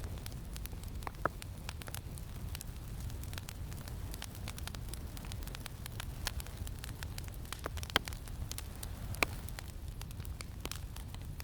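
Campfire crackling, with scattered small pops and two sharper pops about eight and nine seconds in, over a steady low rumble of wind.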